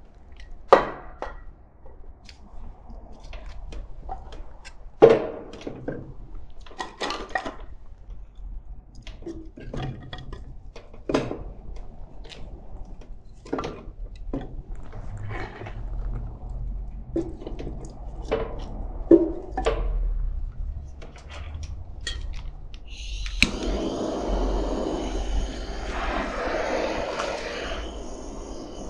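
Split wooden kindling knocking and clattering as it is handled and laid in a wood-burning fireplace's firebox, then, about 23 seconds in, a handheld gas torch starts a steady hiss as it lights the kindling.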